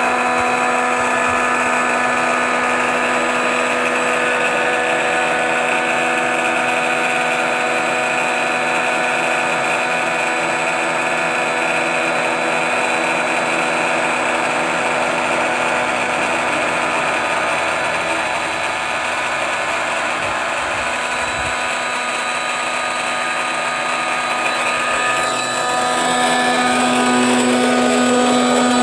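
High-speed electric air pump running steadily with an even motor hum, inflating a truck bed air mattress; the hum grows a little louder near the end.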